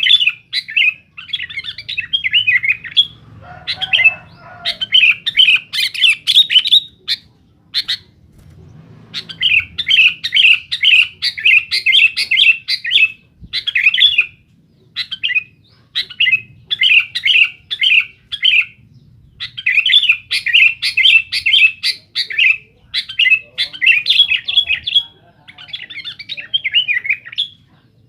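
Sooty-headed bulbul (kutilang) singing loudly in long runs of quick, chattering chirps, broken by a short pause about eight seconds in.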